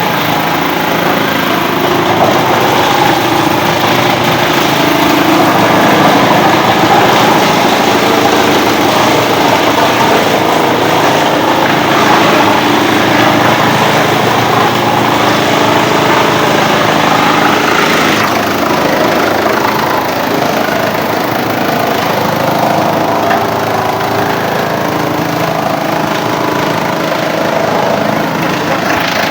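Engine-driven wood chipper running steadily and loudly, a little quieter after about 18 seconds.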